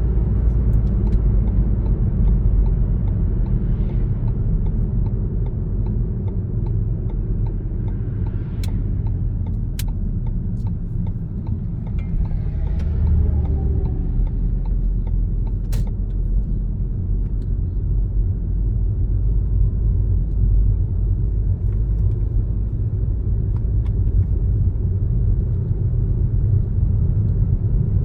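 A car being driven: a steady low rumble of road and engine noise, with a few brief fainter sounds and light clicks over the top.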